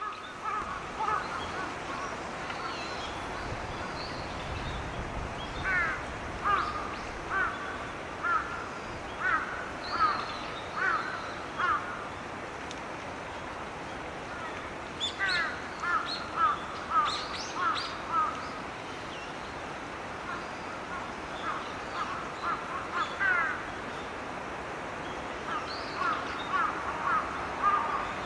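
Birds calling in short repeated calls that rise in pitch, coming in clusters, over a steady background hiss.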